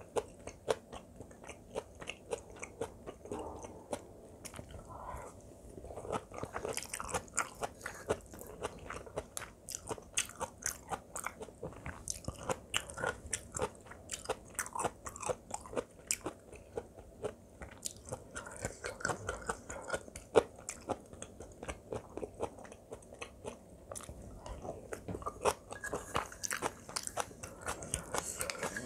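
Close-miked chewing of kimchi fried rice: many small, irregular crunches and wet mouth clicks.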